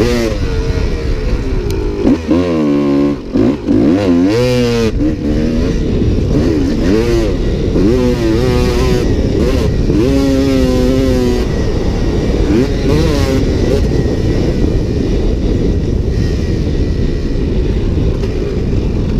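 Dirt bike engine revving hard and shifting through the gears, the pitch climbing and dropping again and again under throttle. After about eleven seconds the engine pitch gives way to a steady rush of noise.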